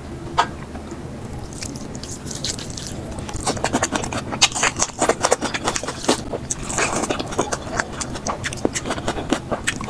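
Eating sounds sped up to double speed: a person chewing and biting, heard as a rapid run of clicks with scraping, growing busier from about three and a half seconds in.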